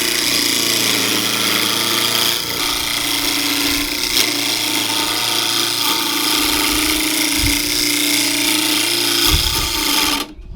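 Wood lathe running with a turning gouge cutting into a spinning cedar block to round it: a steady motor hum under a continuous hissing scrape of the cut. The sound drops away briefly near the end.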